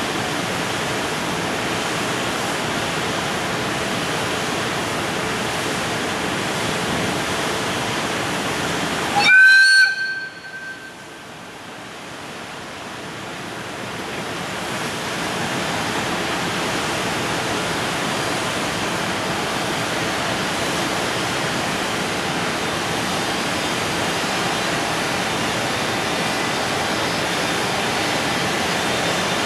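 Container freight train rolling past with a steady rushing noise. About nine seconds in, a short loud horn blast lasting about a second cuts through; the noise then drops sharply and slowly builds back up.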